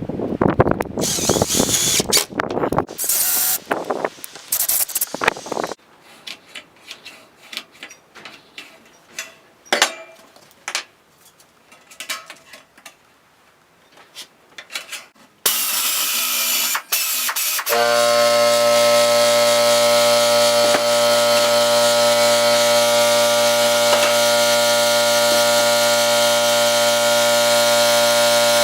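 Gusty wind-like noise, then scattered clicks and knocks of handling tools and materials; about 18 seconds in, an electric power tool starts and runs steadily at a constant pitch.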